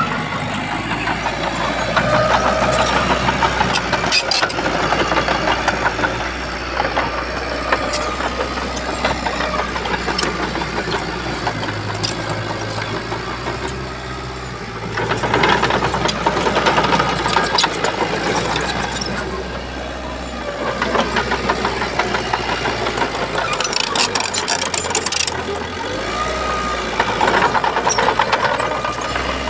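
Shantui bulldozer's diesel engine running continuously and swelling in loudness several times as it works, with a few sharp metallic clanks.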